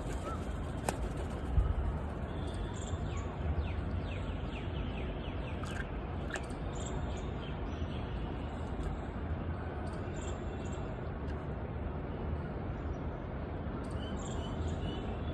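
Outdoor ambience: short, high bird chirps now and then over a steady low rumble, with one thump about a second and a half in.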